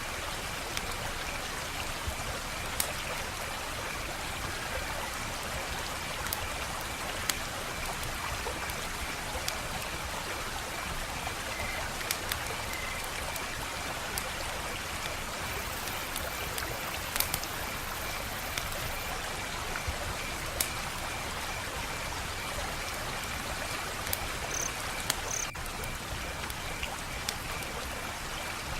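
Wood fire crackling: a steady hiss with scattered sharp pops and snaps every second or two.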